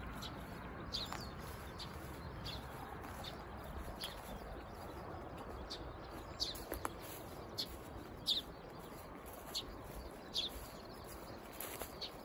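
Small birds chirping: short, high, downward-sliding calls, about one every second, over a steady low outdoor background.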